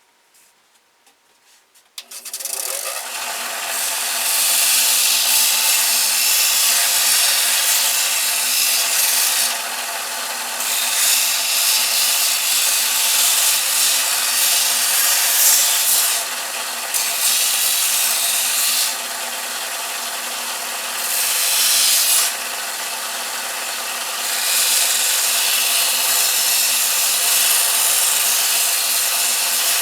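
Belt sander switched on about two seconds in and running steadily while a carved wooden piece is pressed against the belt to round it down, the rasp of wood on the abrasive rising and easing several times as the piece is worked against the belt.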